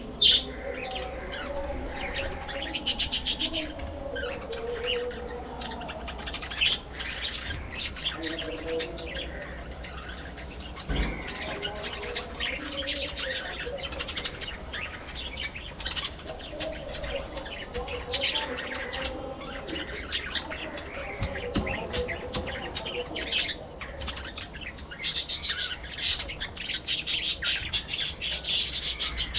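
A flock of budgerigars chirping and chattering, short high calls over continuous lower warbling, growing busier and louder for the last few seconds.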